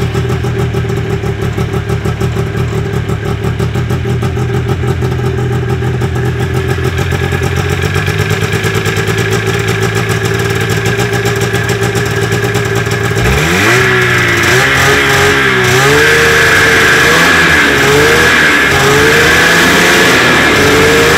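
1976 Ski-Doo TNT RV 250 snowmobile's two-stroke rotary-valve engine just after starting, running at a steady, pulsing low speed. About two-thirds of the way through it is revved up and then blipped up and down repeatedly.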